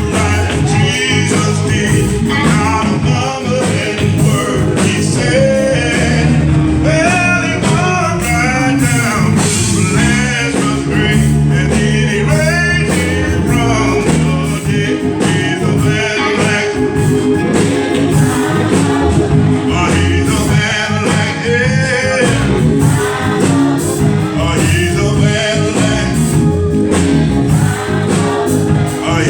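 Live gospel praise-and-worship music: singers over a band with a steady beat.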